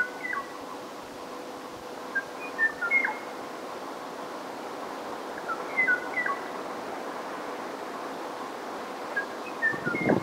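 Kauaʻi ʻōʻō song: short, clear whistled notes in brief phrases repeated about every three seconds, four phrases in all, over a steady hum and hiss. A low rush of noise comes in near the end.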